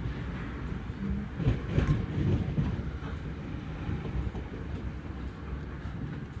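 Train carriages rushing past close by, wheels clattering over rail joints with a low rumble, loudest about two seconds in and then easing off.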